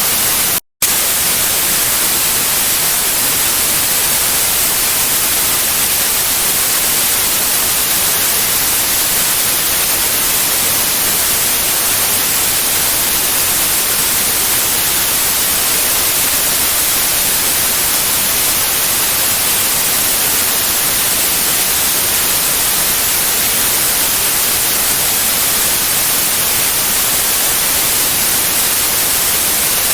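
Steady white noise, a loud even hiss strongest in the high frequencies, broken by a momentary dropout to silence under a second in.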